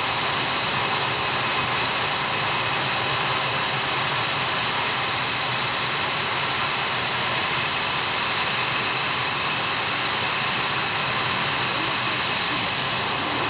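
F-22 Raptor's Pratt & Whitney F119 turbofan engines running steadily: a constant rush of jet noise with a steady high-pitched whine.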